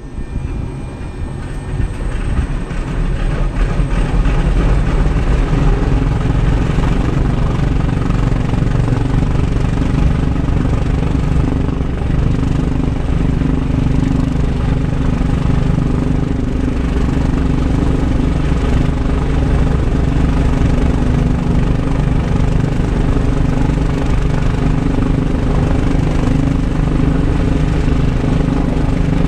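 Lockheed L-1049 Super Constellation's Wright R-3350 radial piston engines running with a loud, rough, uneven rumble. The sound builds over the first few seconds, then holds steady.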